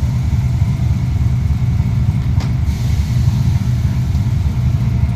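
A vehicle engine running with a steady, deep low rumble.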